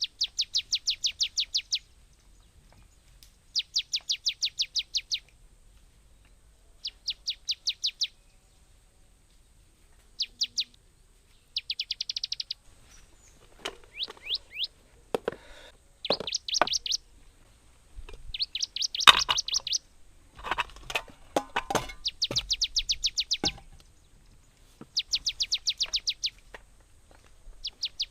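A bird singing a fast trill of rapid, high, down-slurred notes, in bouts of about a second and a half repeated every few seconds. Scattered knocks and rustling come through the middle stretch.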